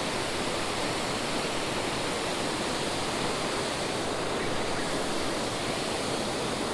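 Steady rushing of a creek waterfall, an even wash of falling water with no breaks.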